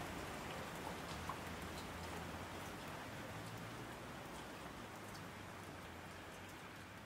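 Soft rain-like hiss with scattered light ticks, slowly fading out, over a faint low steady hum.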